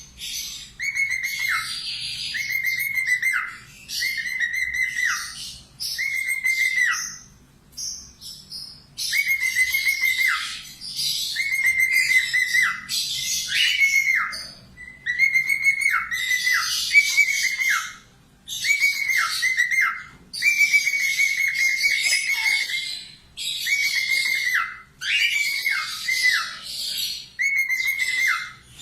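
Falk budgerigar singing loudly and steadily: a short held whistle that falls in pitch at the end, repeated about once a second over scratchy warbling chatter, with a pause of a second or two now and then.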